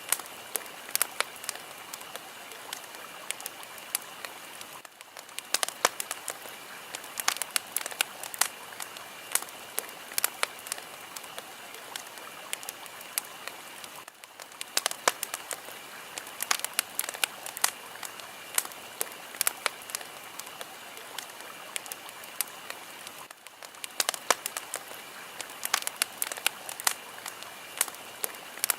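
Fire crackling: a steady hiss with frequent sharp, irregular pops and snaps, and a brief drop in the hiss about every nine seconds.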